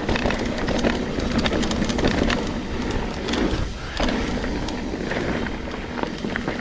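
Full-suspension mountain bike (Trek Slash 9.8) riding fast down a dirt bike-park trail: tyres hissing over dirt and rocks, the bike clattering over bumps, and wind rushing over the action camera's microphone. The noise eases briefly just before the middle.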